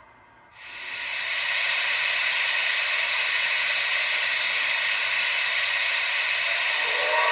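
Sound decoder in a Bachmann EM1 model steam locomotive playing steam hiss through its small speaker: a steady hiss starts about half a second in, and near the end a multi-tone steam whistle begins to blow over it.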